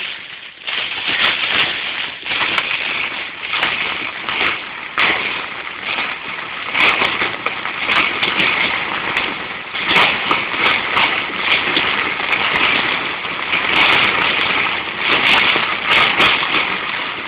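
Heavy storm rain pelting the roof and windscreen of a slowly moving car, heard inside the cabin: a loud, dense hiss that swells and eases, with many sharp ticks from individual hits.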